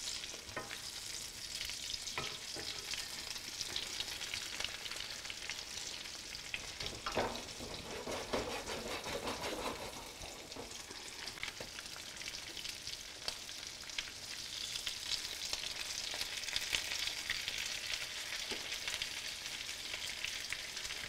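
Egg-battered chicken cutlets frying in shallow olive oil in a skillet: a steady sizzle full of fine crackles. A few brief scrapes of a fork against the pan come through about seven to ten seconds in.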